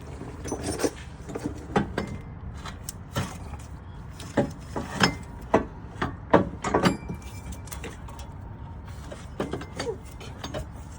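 Irregular metal clunks and knocks as an unbolted car AC compressor is wrestled out of the engine bay, most of them in the first seven seconds, over a steady low background rumble.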